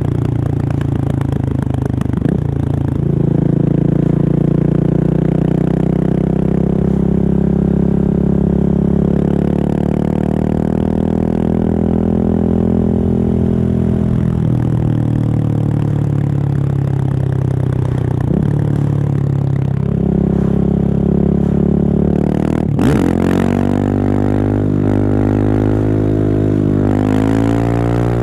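Husqvarna 701 single-cylinder engine through an open Remus exhaust with the dB killer removed, riding under load. The engine note holds and drifts slowly, with short breaks for gear changes; about 23 seconds in it dips sharply and then climbs as the bike accelerates.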